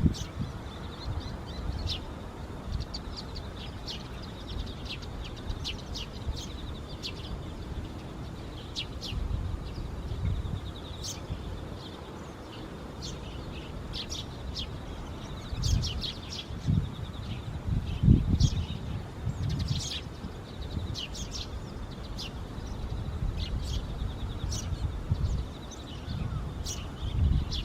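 Eurasian tree sparrows chirping repeatedly in short, quick calls, with a few low rumbles about two-thirds of the way through.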